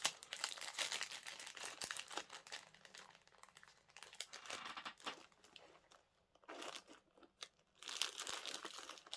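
Small plastic bags of diamond-painting drills crinkling and rustling as they are handled, in irregular bursts with a lull past the middle.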